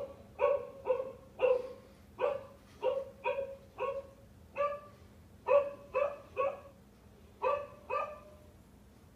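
Recorded dog barking played back: about fifteen short barks in quick, uneven runs, stopping about a second before the end.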